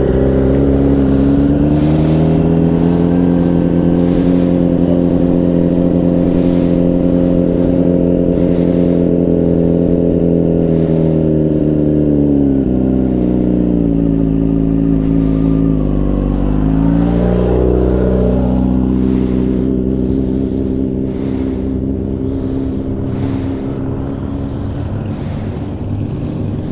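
Motorcycle engine running steadily just above idle. About halfway through, its pitch sags and bottoms out as the clutch starts to engage and the engine lugs down, then recovers to a steady note.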